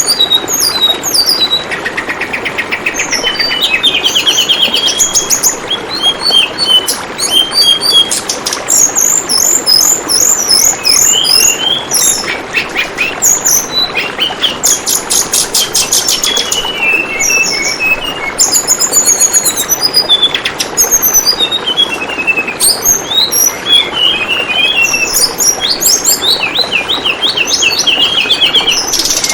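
Tledekan bambu bird singing in rapid runs of high chirps and trills, over the steady rush of flowing water.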